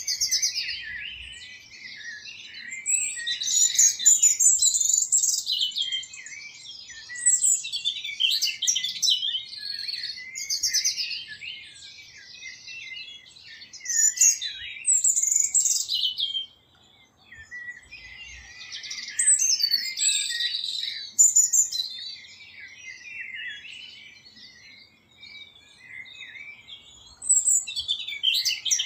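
Small birds chirping and singing in quick, high-pitched phrases and trills, with a couple of short lulls.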